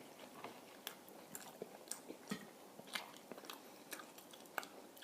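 Someone chewing a mouthful of taco: faint, irregular mouth clicks and small crunches, a few a second.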